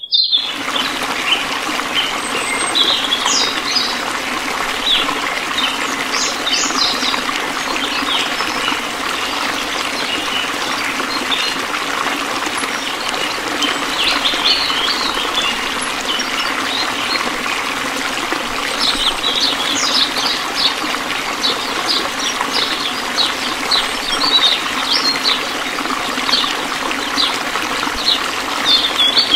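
A thin stream of water pouring steadily from a small pipe into a miniature metal tub, splashing as the tub fills. Short high chirps are scattered over it.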